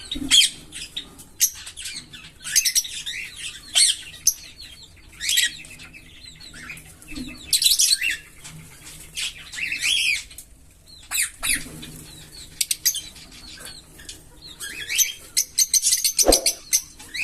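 A pair of green Fischer's lovebirds chirping and twittering in rapid, shrill bursts, with a low thump near the end.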